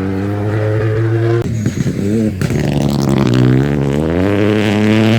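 Rally car engine running at high revs. About a second and a half in, the note wavers and briefly breaks, then climbs steadily in pitch as the car accelerates.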